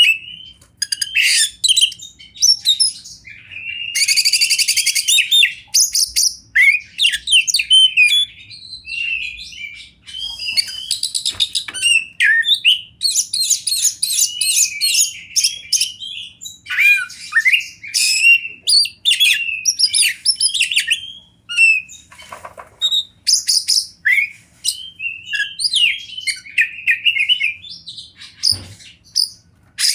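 Oriental magpie-robin (kacer) singing a long, varied song of rapid whistled and chattering phrases, with harsh buzzy rattles about four and ten seconds in.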